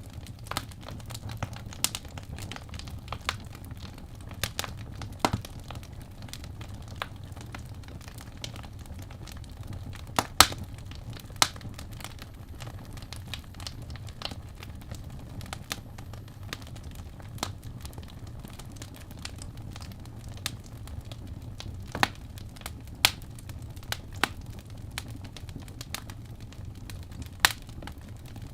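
Wood fire burning in a fireplace: a steady low rumble of flame with irregular crackles and sharp pops of the burning logs, a few louder snaps scattered through.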